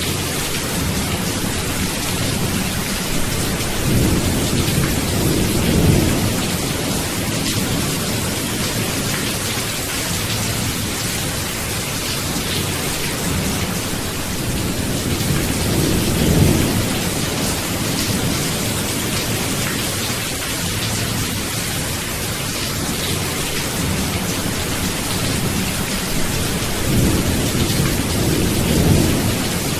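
Steady rain hissing, with thunder rumbling low three times: about four seconds in, about halfway through, and near the end.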